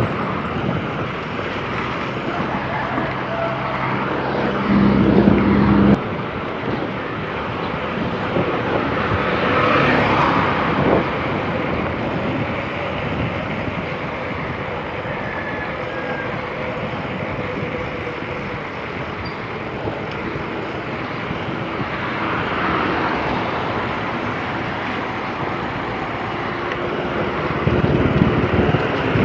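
Steady rushing noise of wind and road traffic heard while riding a bicycle along a road. In the first few seconds a low hum sits under it and cuts off abruptly about six seconds in.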